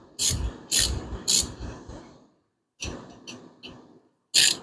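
Hand ratchet wrench being worked in short strokes, each swing a quick burst of pawl clicks. There are three strong strokes in the first second and a half, a few fainter short ones around the middle, and another strong stroke near the end.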